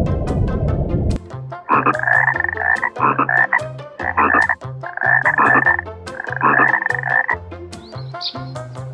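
Frog croaking in a run of about five calls, each up to about a second long, starting about a second and a half in. Before them, a low rumbling noise cuts off suddenly about a second in.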